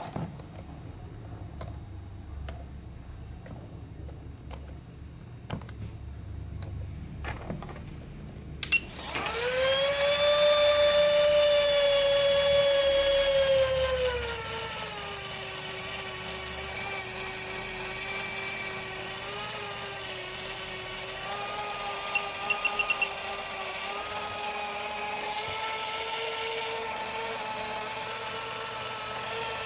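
Small high-speed electric motor of a high-voltage-modified spinner helicopter toy starts with a click about nine seconds in and runs with a loud, high whine. About five seconds later it settles to a lower steady pitch and holds there until it stops near the end. Before it starts there are only faint scattered clicks.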